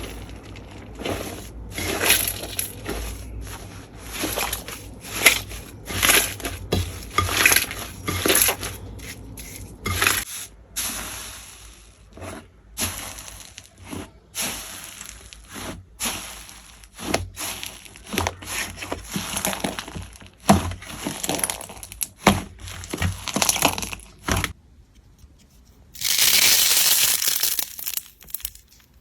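Slime being squeezed and pressed close to the microphone, crackling and popping in many short irregular strokes, then after a brief pause a denser, continuous crackle for about two seconds near the end.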